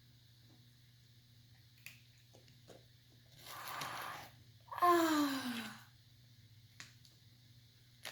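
A child's loud breath, then a single falling groan of disgust about five seconds in, with a few faint clicks before it.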